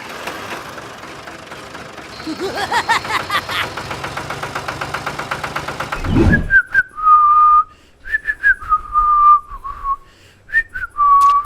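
A steady noisy whirr with fast, even ticking stops suddenly about six seconds in. Whistling follows: a slow tune of held notes with short slides between them and brief breaks.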